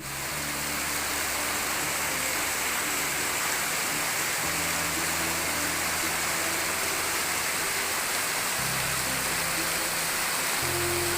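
Waterfall pouring in a steady, even rush. Background music of low held notes that change every few seconds runs underneath.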